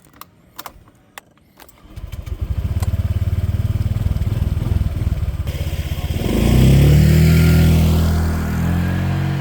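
A few clicks, then a moped's small engine starts about two seconds in and runs with a fast pulsing beat. Around six seconds in it gets louder and rises in pitch as the moped pulls away, with wind rushing over the microphone.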